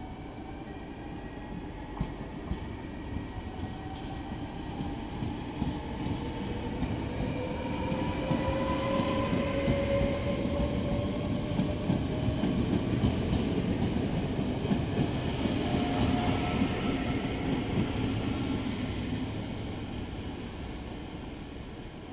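NS VIRM double-decker electric train pulling away from the platform and accelerating past, its traction motors whining in slowly rising tones over the rumble and clatter of the wheels. It grows louder as the train passes and fades as it draws away.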